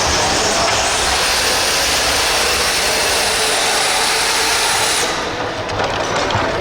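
Radio-controlled pulling vehicle running hard under load down the track, a loud, steady, hissing mechanical sound that cuts off about five seconds in as the pull ends.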